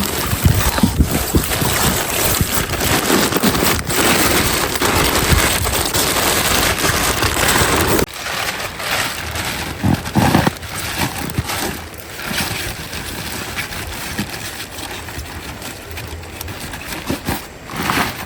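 Fast-flowing stream water rushing, loud at first and dropping to a quieter level about eight seconds in, with a few low knocks.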